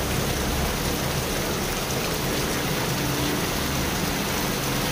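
Heavy rain pouring onto a paved street and puddled ground, a steady even hiss throughout.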